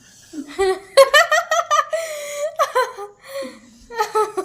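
People laughing loudly: a burst of laughter starts about a second in and runs for about two seconds, and more laughter comes near the end.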